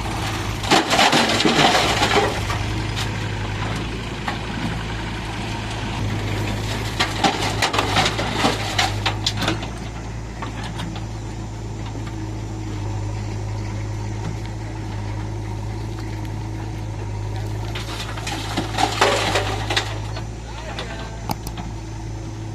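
Diesel engine of a JCB 3DX backhoe loader running at a steady low speed, a constant drone, with a few short bursts of louder noise over it.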